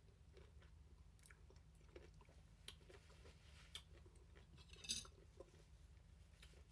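Quiet chewing of a Reuben sandwich with scattered small wet mouth clicks, and one short louder crunch about five seconds in.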